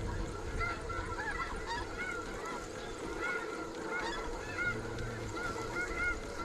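A large flock of snow geese calling continuously, many short high honks overlapping into a steady chatter, with wind rumbling low on the microphone.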